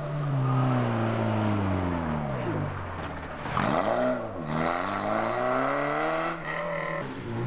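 Rally car engine at high revs with its pitch falling as the car goes by. Around halfway the revs dip briefly, then climb again as it accelerates hard. The sound changes abruptly near the end.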